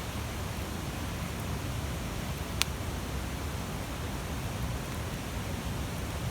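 Large bonfire burning with a steady rushing hiss, and one sharp crackle about two and a half seconds in.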